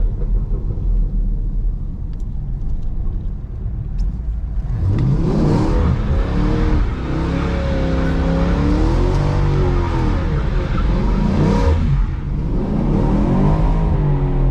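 Chevrolet Camaro SS V8 running low for about five seconds, then revving up and down repeatedly through a donut spin on wet pavement, with a brief dip in the revs about two-thirds of the way in. The exhaust is in its quiet stealth mode.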